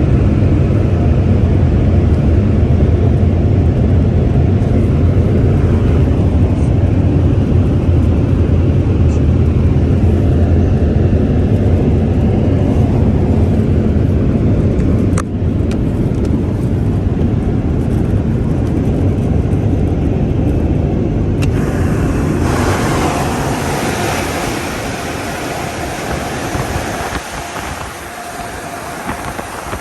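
PDQ Laserwash 360+ touch-free car wash machinery running: a loud, steady low roar. About 22 seconds in the low roar drops away and a brighter, hissing rush of air or water takes over.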